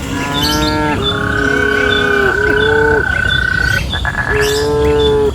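Cattle mooing, fairly high-pitched calls typical of calves: three long calls, the middle one held about two seconds, with a small bird chirping over and over a few times a second.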